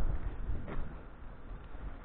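Low rumbling wind and rolling noise from riding an electric scooter off-road, dying away toward the end.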